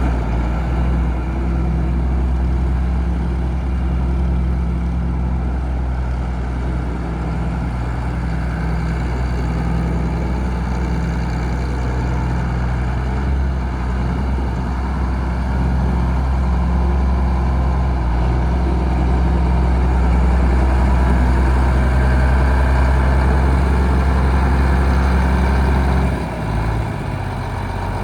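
John Deere 4350 tractor's six-cylinder turbo diesel engine running steadily, dropping lower in pitch and level near the end.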